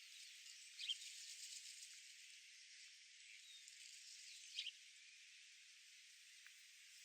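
Faint outdoor ambience: a thin, soft hiss with two short bird chirps, about a second in and again about four and a half seconds in, and a few fainter bird calls.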